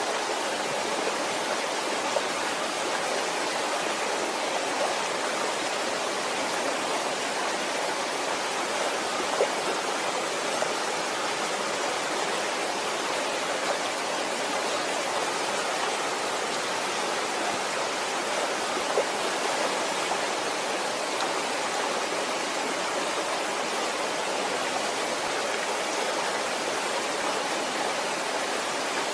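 Waterfall: a steady, unbroken rush of falling water, with a few faint splashes or drips standing out now and then.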